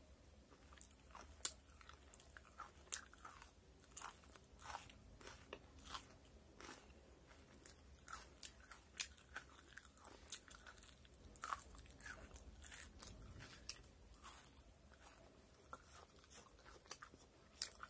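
Faint crunching and chewing of crisp fried chicken pakoda, with irregular sharp crackles and clicks from the mouth.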